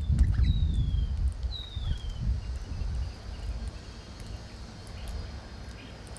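A bird gives two high whistled calls that fall in pitch, the second about a second after the first, over a low rumbling noise that is loudest in the first few seconds and then eases off.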